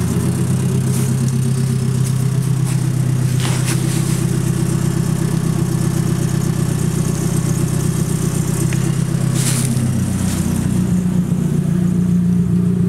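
Nissan 240SX's SR20 inline-four engine idling steadily; about ten seconds in its note rises slightly.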